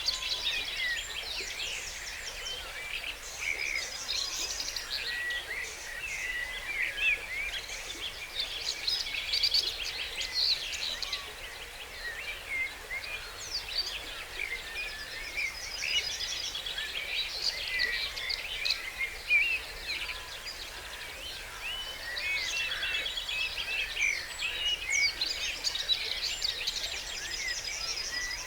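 Dawn chorus: many songbirds singing at once, with overlapping songs and calls and rapid trills that come again every several seconds.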